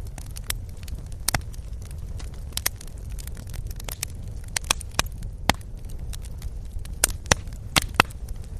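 Wood bonfire crackling: irregular sharp pops and snaps over a low steady rumble, the loudest pops coming near the end.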